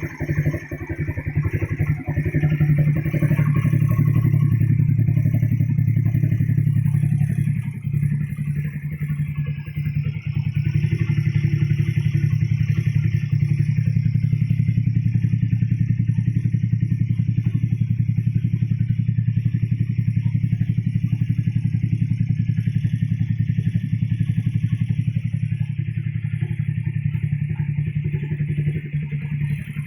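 Custom 200cc Yamaha Nouvo scooter engine running steadily through a PDK aftermarket exhaust, with a deep, even exhaust note. It eases off briefly about eight seconds in and again near the end.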